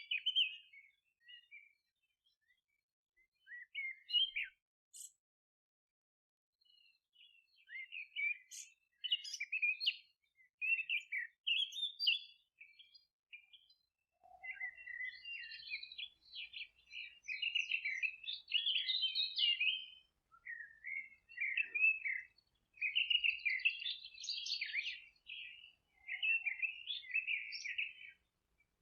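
Small songbirds chirping and twittering: scattered high chirps with short silences at first, then dense, almost unbroken song through the second half.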